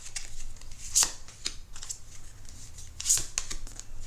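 Tarot cards being drawn from the deck and laid down one by one: short crisp snaps and rustles of card stock, the sharpest about a second in and about three seconds in.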